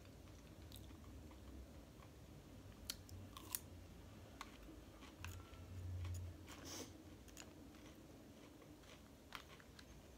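Faint close-up chewing of salad and chicken pieces, with scattered light clicks of a plastic fork against a clear plastic salad bowl.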